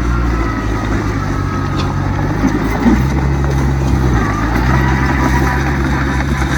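Diesel engine of heavy earthmoving machinery running steadily, its pitch shifting up and down a few times as the load changes, with a thin whine above it.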